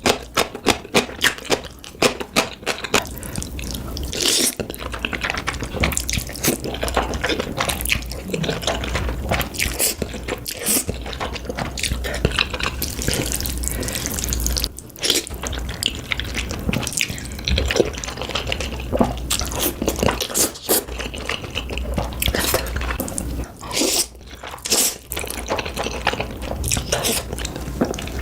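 Close-miked wet eating sounds: a dense run of quick, moist mouth clicks and smacks, as of someone chewing and slurping food.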